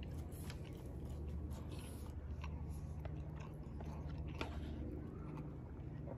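A person chewing a mouthful of siomay, with scattered small clicks and taps.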